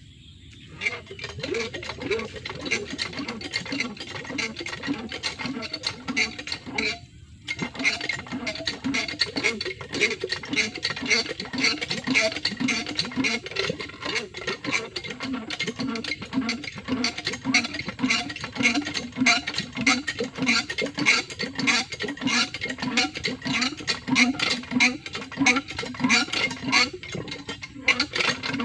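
Water pump mechanism running with a steady, rhythmic clanking and rattling that starts just under a second in and breaks off briefly about seven seconds in.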